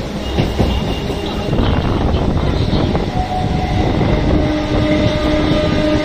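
Electric suburban local train running, heard from its open doorway: a heavy rumble of wheels on the track with clattering clicks over the rail joints. A steady droning tone joins about three seconds in and holds.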